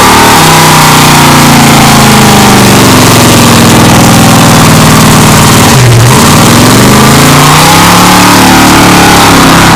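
A vehicle engine revving hard and held at high revs, very loud and distorted. The revs sag slowly, drop sharply about six seconds in, then climb again and sag once more.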